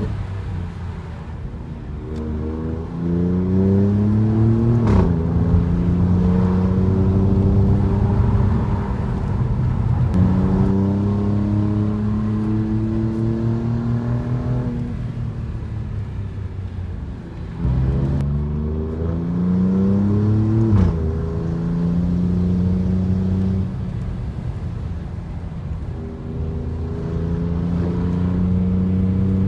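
Alfa Romeo Giulia Quadrifoglio's Ferrari-derived twin-turbo V6, heard from inside the cabin, pulling through the gears. The engine note climbs and drops sharply at an upshift about five seconds in and again about twenty-one seconds in, each shift with a short crack, and holds steady between pulls.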